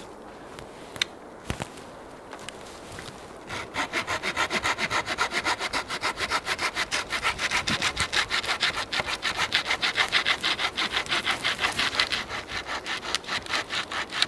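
Hand saw cutting through wood for firewood: a couple of light knocks, then from about three and a half seconds in a steady run of quick, even back-and-forth rasping strokes.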